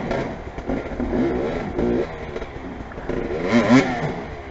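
Motorcycle engine revving up and down, with its loudest rev about three and a half seconds in.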